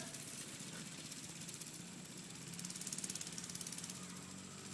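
Mini bike's small engine running steadily, with a rapid rasping pulse that swells briefly louder around the middle.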